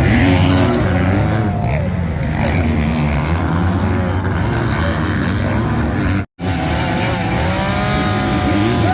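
Several motocross bikes' engines revving up and down at once, their pitches rising and falling, with a brief break in the sound a little after six seconds in.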